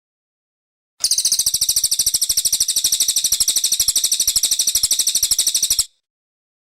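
Brown cililin songbird singing a rapid, high-pitched trill of about a dozen notes a second for about five seconds. It starts a second in and cuts off abruptly.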